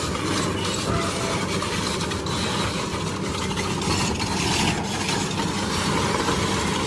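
A toy crawler vehicle running with a steady engine-like rumble and clatter.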